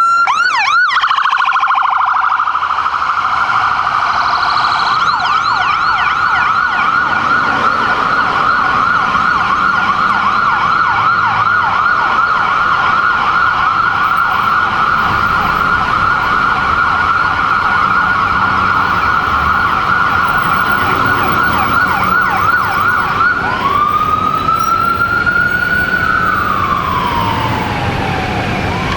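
Emergency vehicle's electronic siren on a fast yelp, switching about 23 seconds in to a slow wail that rises, falls and starts rising again.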